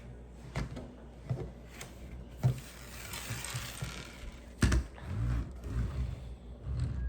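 Lego plastic pieces clicking and rattling as they are handled and pressed together, with a sharp knock a little past the middle and a brief rustle before it.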